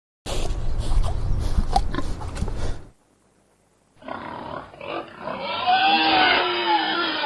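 A large animal's deep, rough roar or grunting, lasting a little over two seconds and cutting off abruptly. After about a second of silence, a second animal clip starts with calls that waver and glide in pitch.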